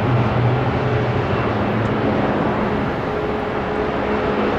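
Jet engine noise from a Qantas Airbus A380 landing: a loud, steady rushing noise with a low hum running through it.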